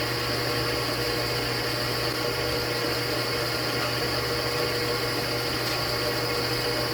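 Three-phase electric motor running at steady speed, with an even mains hum and a whine on top.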